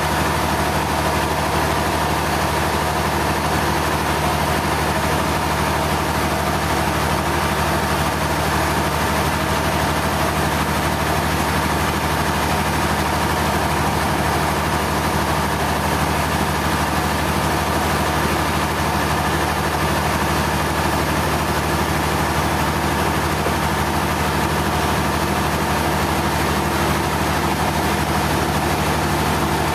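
A heavy engine running steadily at one even speed, a constant hum with no revving.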